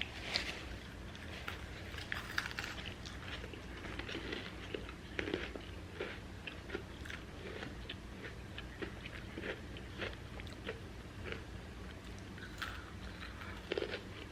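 Close-up crunching and chewing of crispy well-done fries, with irregular crisp crunches several times a second.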